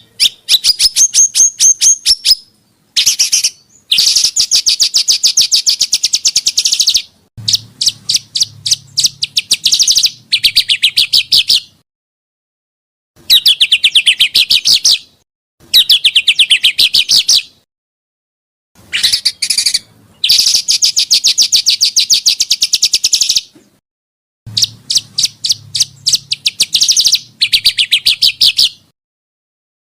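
Small songbird giving rapid runs of sharp, evenly repeated notes, a dense machine-gun-like song of the kind called 'tembakan' in Indonesian bird training. It comes in bursts of one to four seconds, broken by abrupt gaps of dead silence where the recording has been cut and looped.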